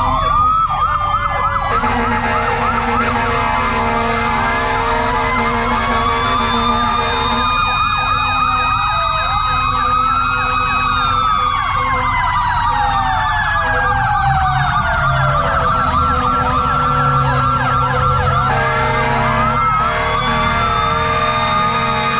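Several fire truck and ambulance sirens sounding at once and overlapping, some wailing slowly up and down in pitch and others yelping fast, with steady lower tones cutting in and out.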